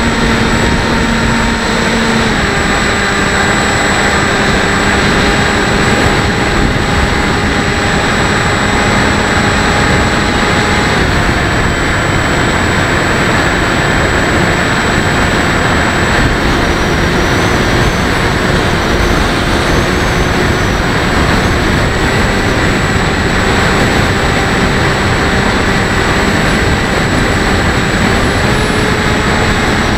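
Bixler 1.1 electric model plane's motor and propeller running steadily, heard from its onboard camera, under heavy wind rush on the microphone. The motor's hum drops slightly in pitch about two seconds in as the throttle eases, then wavers a little.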